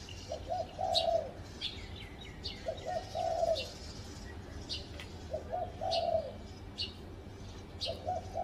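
Spotted dove cooing: a phrase of two short notes and a longer drawn-out coo, repeated about every two and a half seconds, four times. Short high chirps from small birds sound in between.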